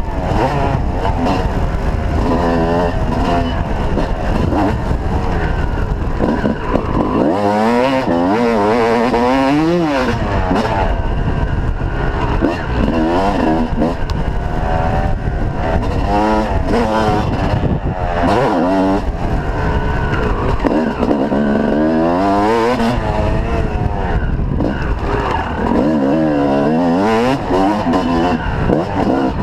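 Motocross bike engines revving hard and dropping off again and again as the bikes accelerate, shift and brake around the track; at times more than one engine is heard at once.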